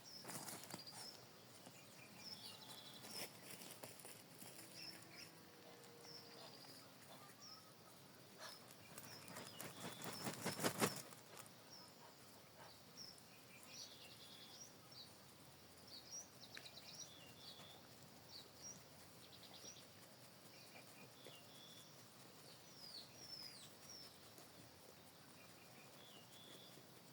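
Quiet rural outdoor ambience with small birds chirping on and off. About ten seconds in, a louder rustling swells and stops abruptly.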